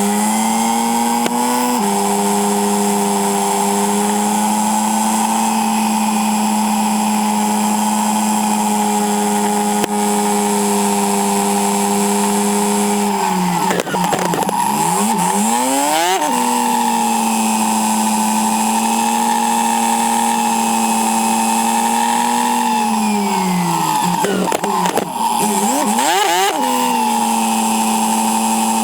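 Yamaha Silverado's 1700cc V-twin engine running steadily under way; twice its note drops and then climbs back up.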